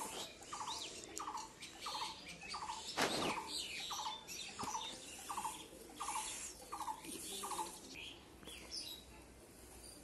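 A bird calling one short, slightly falling note over and over, about twice a second, stopping near the end, with other birds chirping higher above it. A brief rustle about three seconds in.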